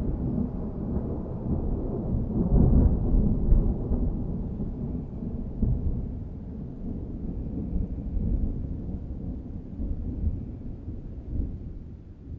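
Thunder rumbling low and rolling on, slowly fading away.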